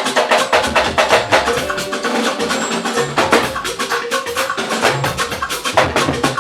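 A live band playing an instrumental stretch of gospel praise music: fast, busy percussion strokes over held chords, with no singing.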